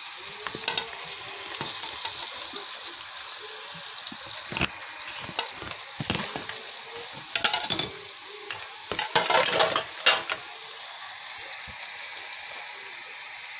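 Chicken pieces sizzling as they fry in hot oil with browned onion, garlic and ginger in a metal cooking pot, stirred through, with scattered knocks and a burst of clatter about nine to ten seconds in.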